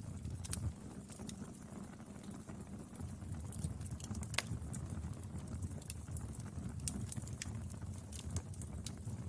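Wood fire burning: a steady low rumble of flames with scattered crackles and pops from the burning wood, one sharper pop about four seconds in.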